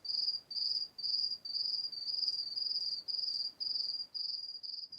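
Insect chirping steadily in a regular rhythm, about two short, high-pitched trilled chirps a second.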